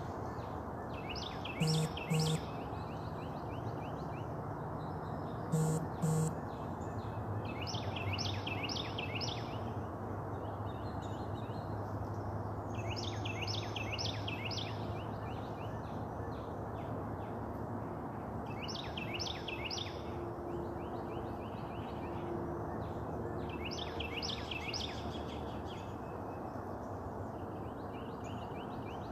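A songbird repeats a short phrase of four or five quick, falling whistled notes about every five to six seconds over a steady outdoor background hum. Near the start there are two brief double bursts of sound.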